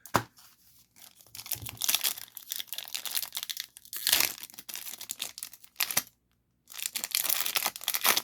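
A single sharp knock right at the start, then a trading card pack's wrapper being torn open and crinkled, with a short pause about six seconds in.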